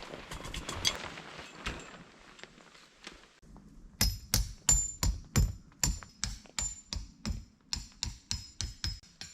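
Rapid hammer blows with a bright metallic ring, about three a second, starting about four seconds in after a fading rustle.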